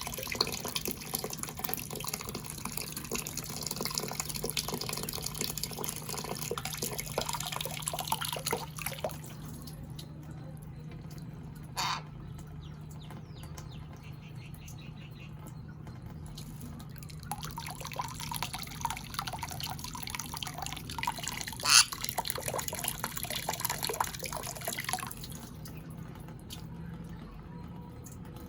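Water splashing and dripping as small parrots bathe, in two long spells with a quieter stretch between them. Two short, sharp sounds stand out, one a little before the middle and a louder one about three quarters of the way through.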